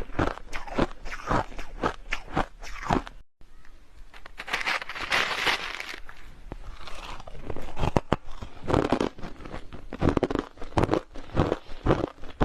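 A person biting and chewing hard crushed ice, a run of sharp crunches about two or three a second, close to the microphone. The sound cuts out briefly about a quarter of the way in, and the crunching starts again.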